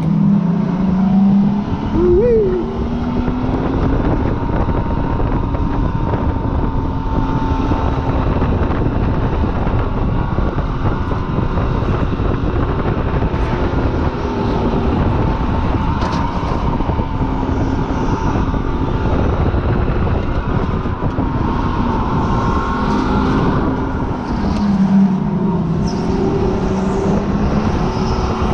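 Supercharged car's engine running hard on a track lap, heard from on board over steady wind and road noise. The engine pitch drops under braking near the start and again about 25 seconds in, with a brief sharp rev about two seconds in.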